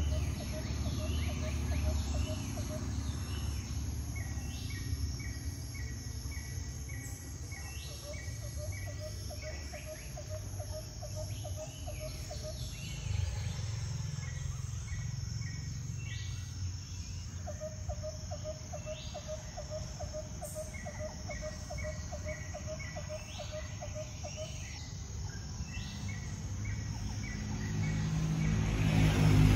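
Outdoor ambience of birds calling: runs of short repeated notes and falling whistles, with a lower rapid trill that comes and goes in runs of a few seconds, over a steady low rumble.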